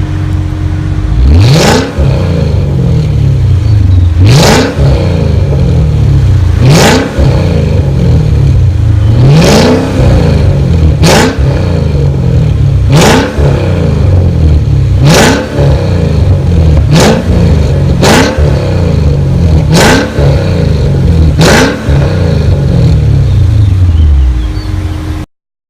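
Car engine revved repeatedly through a vacuum-valved stainless exhaust with the valve open, the loud mode: about eleven quick blips from idle, each rising then falling back, with idle between. The sound cuts off suddenly near the end.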